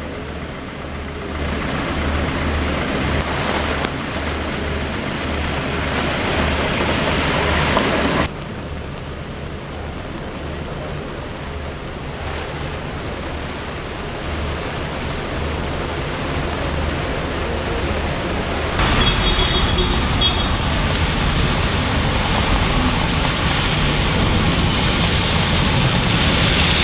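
Steady hiss of rain, changing abruptly twice. In the last third it is traffic (cars and a scooter) driving on a rain-soaked road, louder and deeper.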